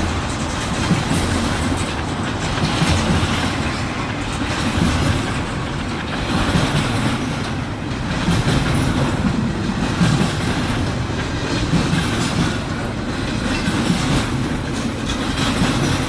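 Intermodal freight train cars rolling steadily past, with a continuous rumble and the clickety-clack of their wheels over the rail joints.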